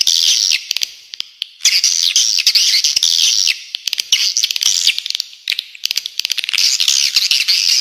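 Spiderhunter song mixed with swiftlet chirping: dense, harsh, high-pitched chattering in runs of about two seconds with brief gaps, threaded with sharp clicks.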